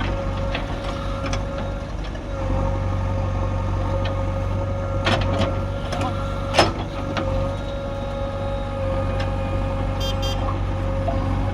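Heavy diesel machine engine running steadily, with a few sharp knocks about halfway through, the loudest among them standing out briefly.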